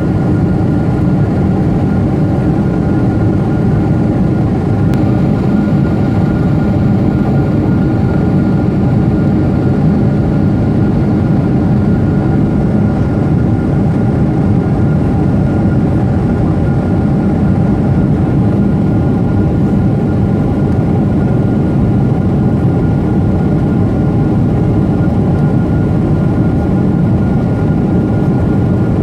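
Steady jet engine and airflow rumble heard inside the passenger cabin of a Boeing 747-8i with GEnx-2B engines, with a thin steady whine above the rumble.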